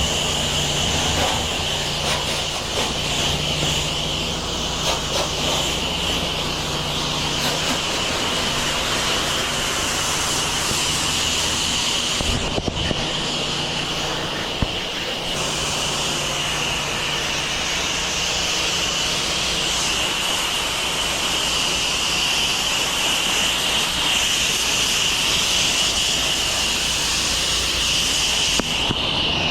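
Gas pressure washer engine running steadily under the hiss of its high-pressure water spray. The spray hiss cuts out briefly twice, about twelve seconds in and near the end.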